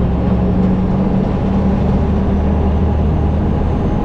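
Diesel truck engine running at a steady cruise, with a constant low drone and road noise while driving.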